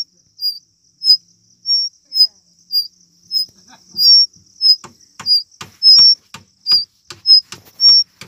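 Fledgling birds giving short, high chirps over and over, about two a second. From about halfway through, a quick series of clicks joins in.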